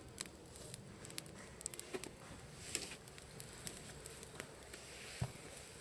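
Wood campfire crackling, with irregular sharp pops and snaps and one duller knock about five seconds in.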